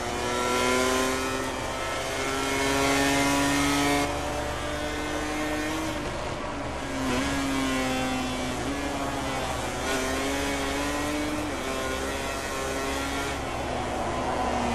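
MotoGP racing motorcycle engines at high revs, rising in pitch and dropping back several times as they change up through the gears.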